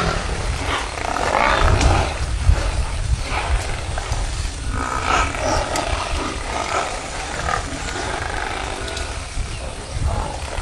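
Lions growling in irregular rough bursts.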